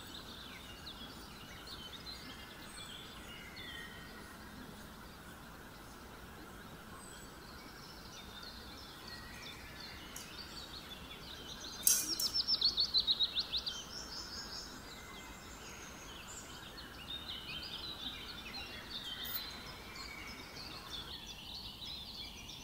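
Birds chirping over a steady low hiss of background noise. About twelve seconds in, one bird gives a loud, fast run of repeated falling notes lasting about a second and a half.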